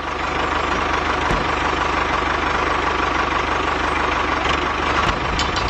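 A motor running steadily at an even speed, with a fast, regular low pulsing.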